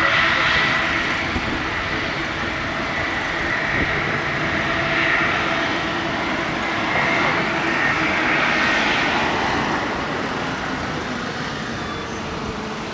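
Airbus A330-300's Rolls-Royce Trent 700 jet engines at takeoff thrust, a steady rushing roar with a faint whine in it, slowly fading over the last few seconds as the airliner climbs away.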